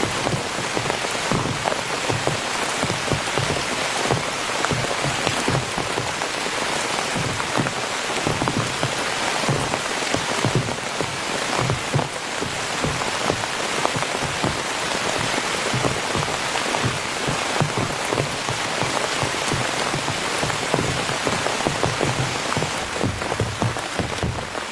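Heavy rain falling steadily on a tent, with many drops pattering and dull low drumming of drops on the fabric.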